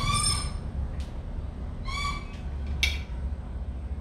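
A bird calling twice, short pitched calls about two seconds apart, with a brief sharp click near the end, over a steady low hum.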